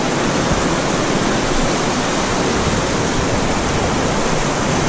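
Steady rush of shallow river water running over rocks.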